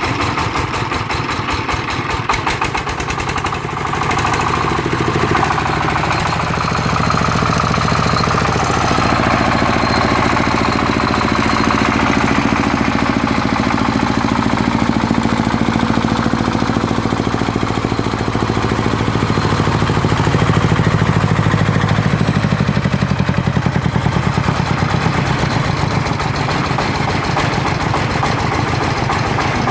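Single-cylinder diesel engine of a two-axle-drive công nông farm truck running hard under load, with a rapid, even thumping beat. Its note rises and grows louder about four to eight seconds in as it works on a slippery, muddy track.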